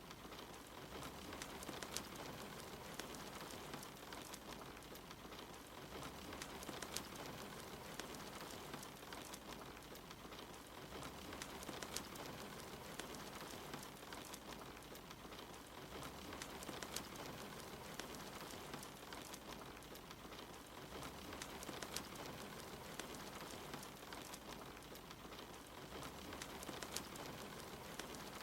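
Steady rain pattering with a wood fire crackling, sharp pops and snaps scattered through it.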